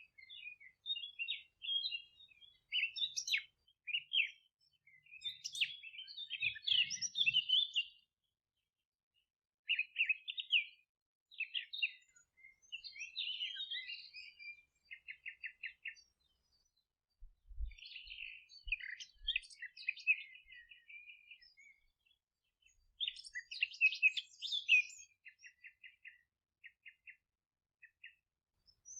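Songbirds singing: bouts of quick chirps and twittering phrases with rapid buzzy trills, broken by short pauses.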